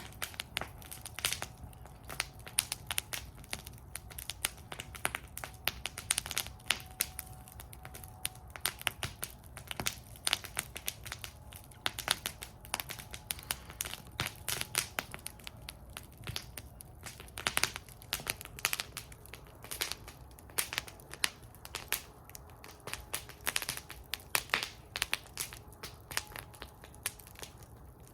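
Wood fire burning in a metal fire bowl, crackling with many irregular sharp pops and snaps of varying loudness over a low, steady rumble of the flames. A faint thin whistle comes in briefly about six to eight seconds in.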